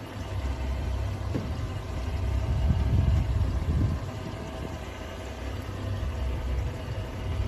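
Motorboat engine idling out of gear, a steady low rumble.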